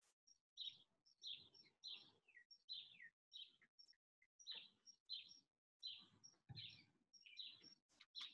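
Faint bird chirping: a quick series of short chirps, each dropping in pitch, about two a second.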